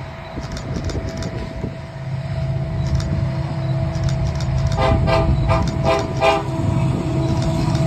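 Approaching Kansas City Southern diesel freight locomotives rumbling steadily, growing slowly louder. About five seconds in, the train horn sounds a quick run of short blasts.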